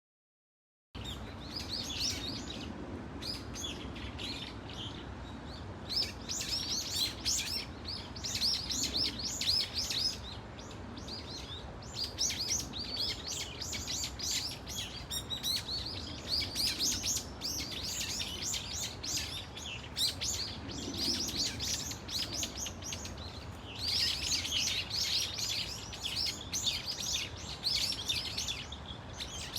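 A flock of brown-eared bulbuls calling, many loud, shrill calls overlapping almost without pause.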